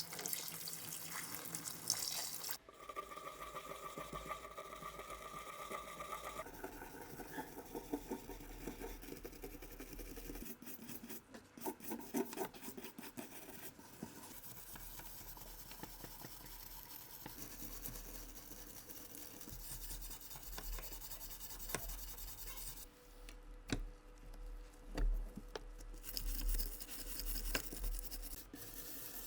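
Rubbing and scraping from hand work on small parts, in several short segments that change in tone, with a few light clicks.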